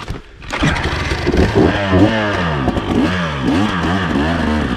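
Dirt bike engine coming in suddenly about half a second in, then revved up and down several times, its pitch rising and falling with each blip of the throttle, with some clattering.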